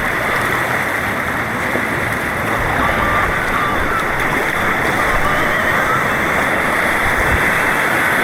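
Rushing white water of a white-water course's rapids, a steady loud rush of churning water heard from the kayak.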